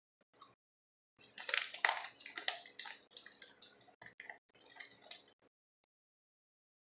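Close-up chewing of a crunchy bite: a dense run of uneven crackling crunches for about four seconds.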